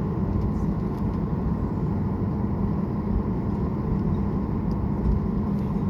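Steady drone of an airliner's jet engines and rushing air heard inside the passenger cabin, with a constant low hum.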